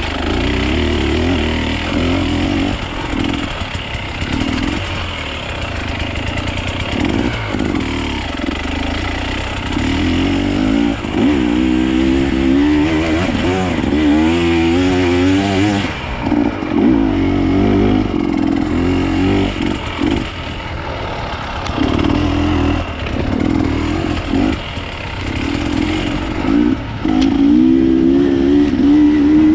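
Enduro motorcycle engine being ridden off-road, revving up and down over and over, with quick rises and falls in pitch that are busiest around the middle.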